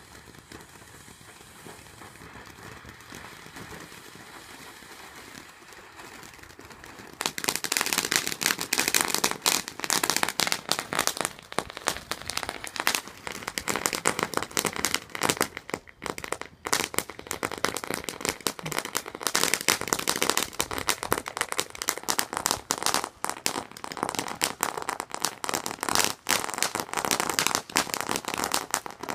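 A quieter steady hiss, then about seven seconds in a long string of firecrackers starts suddenly and keeps going as a dense, rapid crackle of pops.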